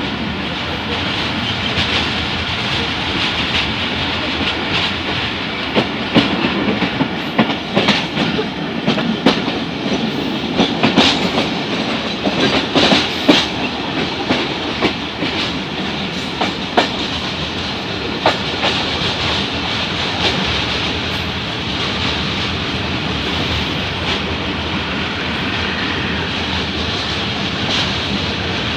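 Passenger train running at speed, heard through an open coach window: a steady rush and rumble with the wheels clacking over rail joints, the clacks sharpest and most frequent through the middle stretch.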